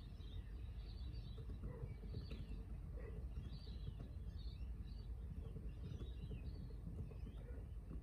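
Small birds chirping and twittering in scattered short calls over a faint, steady low rumble of outdoor background noise.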